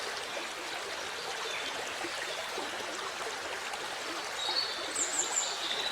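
Waterfall rushing steadily, an even hiss of falling water. A few short, high bird chirps come through near the end.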